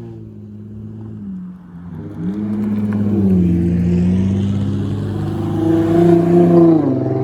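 Custom VIP-style car with an aftermarket exhaust accelerating away: the engine note rises about two seconds in, holds, climbs louder near the end, then drops as it lets off.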